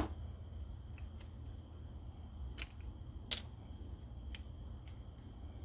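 A few small sharp clicks and taps of carburetor parts being handled as the float and needle are pulled out, the loudest a little past halfway, over a steady low hum and a thin high-pitched whine.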